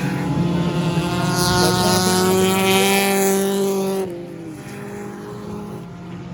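Stock car engines running at race speed around the track, with a car passing close in the middle. The engine noise drops off sharply about four seconds in.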